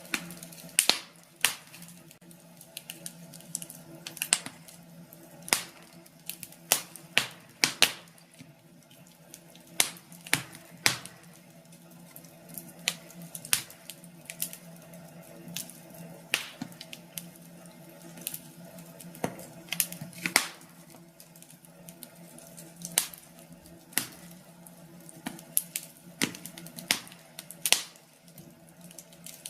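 Wood fire crackling in a fireplace: irregular sharp pops and snaps, sometimes several in quick succession, over a low steady hum.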